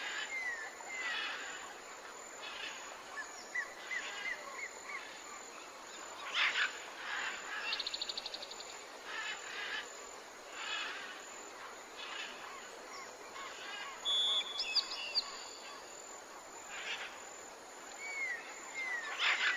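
Several birds calling and singing over a steady hiss of outdoor ambience, with short rising chirps throughout. A fast trill comes about eight seconds in, and a run of high whistled notes about fourteen seconds in.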